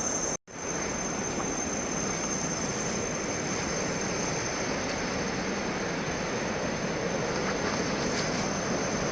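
Steady, even rushing of a large waterfall close by, with the sound cutting out for a moment about half a second in.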